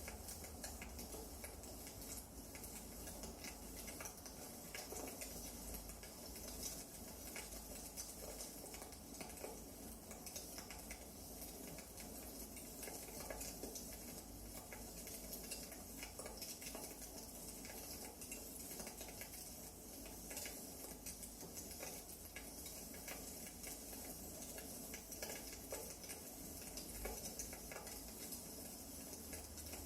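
Wood fire crackling in a fireplace: a steady soft hiss with irregular small pops and snaps.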